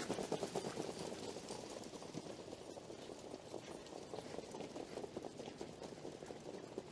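A sheep's fleece rubbing and scraping against a rough standing stone as it scratches its rump: a dense, crackly rustle of wool on rock, loudest at the start and softer after a couple of seconds.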